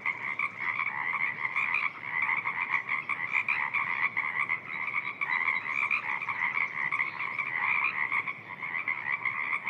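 Dense spring breeding chorus of Pacific chorus frogs: many frogs calling at once, their overlapping calls forming a continuous pulsing din.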